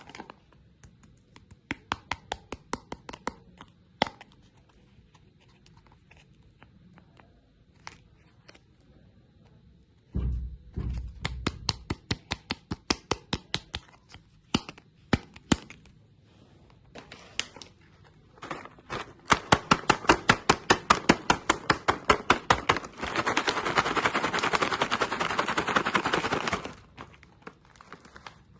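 Hard candy being crunched and cracked: scattered sharp cracks, then a fast run of crisp snaps at about five a second, turning into a dense crackling for a few seconds near the end.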